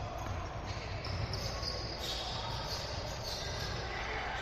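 Basketball game sounds in a gym: a ball bouncing on the court amid the chatter of voices, with short high squeaks.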